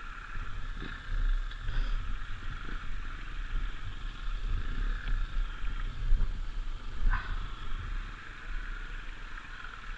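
Off-road trail motorbike on the move, heard from a bike- or helmet-mounted camera: a steady hum over uneven wind buffeting and low rumble, with scattered knocks from the bike going over rough ground.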